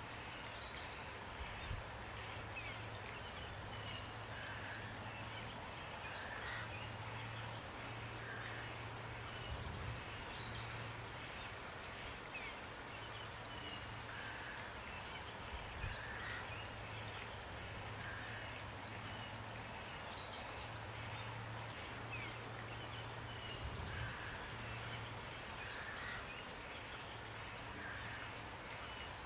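Songbirds singing in repeated bursts of quick, high chirps and trills over a steady hiss of falling rain, with a low hum underneath.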